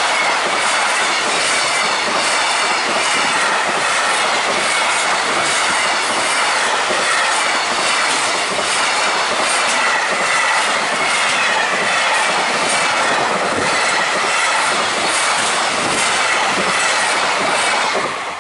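High-speed container freight train's wagons passing close by at speed: a steady loud roar with wheels clattering over rail joints and a wavering high squeal. Near the end the last wagon passes and the noise drops away sharply.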